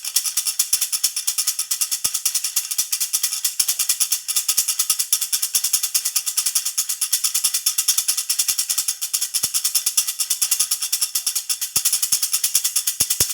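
Baby rattle (jhunjhuna) shaken steadily, a fast, even jingling rhythm of about six to seven shakes a second.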